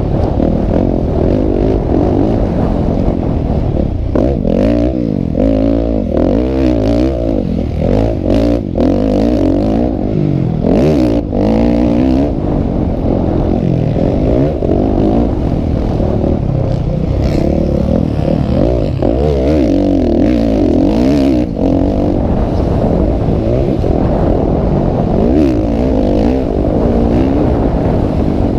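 Motocross motorcycle engines revving, with several at once rising and falling in pitch over and over. A few sharp clicks come through in the first half.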